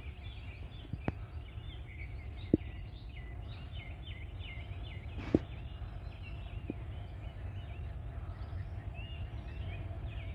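Many small birds chirping and chattering continuously, over a low steady rumble, with a few sharp clicks about one, two and a half and five seconds in.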